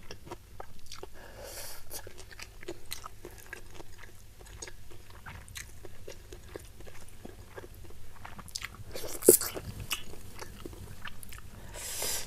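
A person chewing a mouthful of spicy stir-fried salted fish and rice, with many small wet mouth clicks and smacks and a few brief hissy breaths. One louder click comes about nine seconds in.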